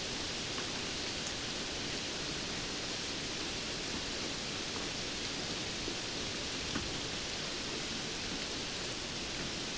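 Steady rain: an even hiss, with a few faint ticks of single drops.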